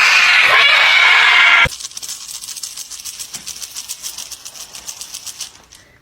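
A cat yowling harshly and loudly, cutting off suddenly under two seconds in; then a faint, fast ticking that fades away.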